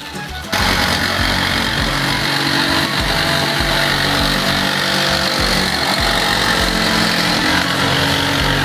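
Jigsaw with a sheet-metal blade cutting through a van's steel roof, running steadily. It starts abruptly about half a second in.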